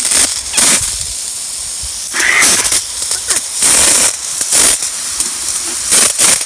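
Water spraying hard from a garden hose, coming in uneven surges of hiss that swell and drop every second or so.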